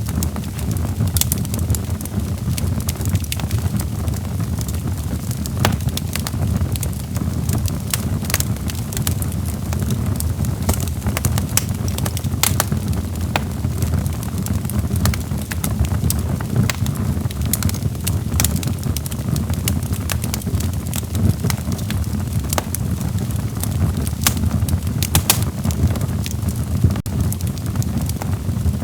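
Log fire crackling in a fireplace: irregular sharp pops and snaps, several a second, over a steady low rumble of burning wood.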